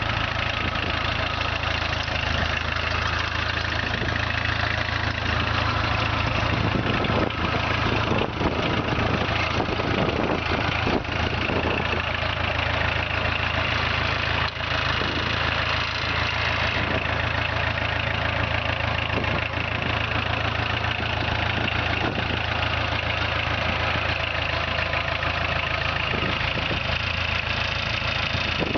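VW 1.6 four-cylinder diesel engine in a TZ4 K14 minitractor, running steadily, with a few rougher, noisier stretches in the middle.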